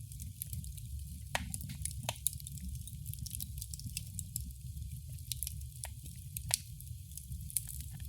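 Wood fire crackling in a fireplace: a low steady rumble of the flames under irregular sharp pops and snaps, a few of them louder.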